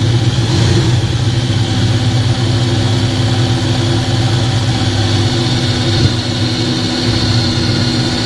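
Electric drill motor running steadily under load, boring a 5/32-inch hole into the varnished wood of the kayak.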